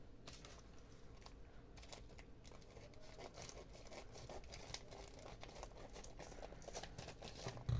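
Faint crinkling and tearing of a cardboard craft kit's packaging being cut open with scissors, with scattered small clicks.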